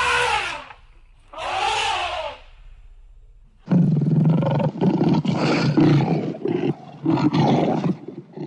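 Big cat roaring: two short calls that rise and fall in pitch, then after a pause a longer, rough, broken run of roars lasting about four seconds.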